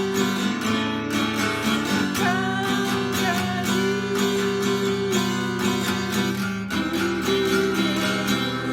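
Acoustic guitar strummed in a 3/4 waltz rhythm, moving through simple open chords (C, G7, F, A minor, D minor). A gliding melody line sounds above the chords.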